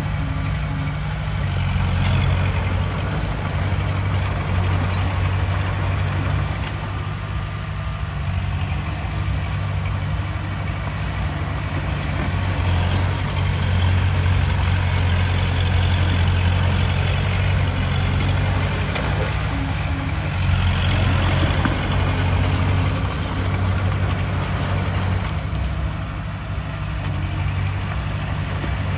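Heavy diesel engine of earthmoving machinery running steadily, with a deep low hum that swells several times as the engine takes load.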